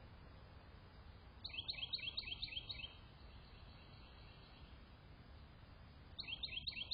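A songbird calling outdoors: two bursts of quick, falling high chirps, about a second in and again near the end, over a steady low background rumble.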